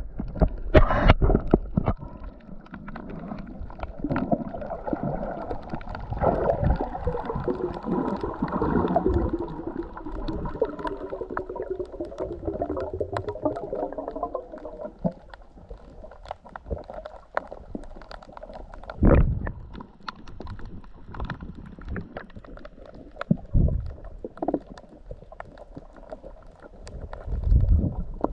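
Muffled underwater sound picked up by a camera in the sea: water gurgling and moving against the housing, with scattered clicks and a few low thumps.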